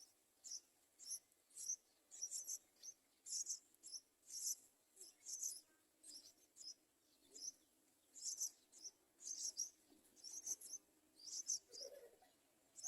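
Short, high-pitched chirps repeating about twice a second, from a small chirping creature.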